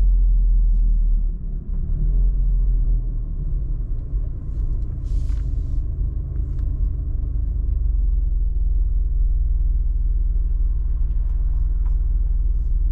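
Steady low engine and road rumble of a car being driven, heard from inside the cabin, with a brief hiss about five seconds in.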